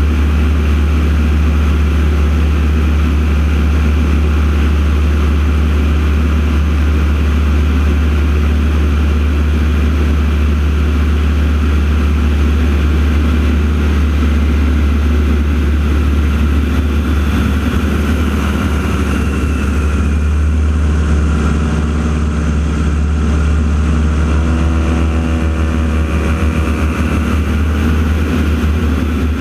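Radial-engine propeller aircraft of a formation aerobatic team, North American T-6 Texans, droning steadily overhead. About two-thirds of the way through, the pitch drops and the sound sweeps as the planes pass by.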